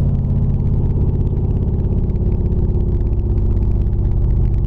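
Small-block Chevy 350 V8 running through open headers with no mufflers, a loud, steady exhaust note while the car cruises.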